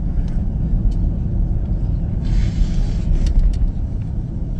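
Steady low cabin rumble of an Airbus A340-300 taxiing, its four CFM56 engines running with the wheels rolling on the taxiway. A short hiss of air comes in about halfway through, with a few light clicks.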